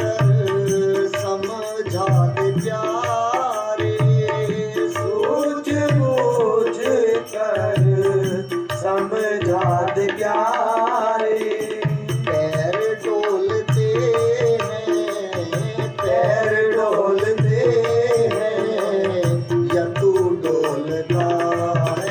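Instrumental interlude of a Hindi devotional bhajan: tabla beating a steady rhythm under a melody line that bends and glides between sung verses.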